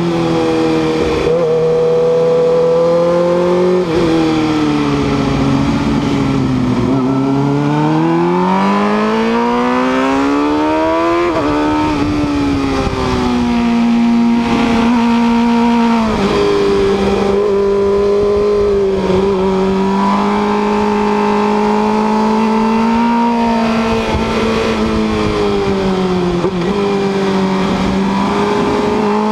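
Sport motorcycle's engine heard from on board at track speed, its pitch climbing under hard acceleration and dropping sharply at an upshift about eleven seconds in, then held at a steady high rev with small dips through the corners, over constant wind rush.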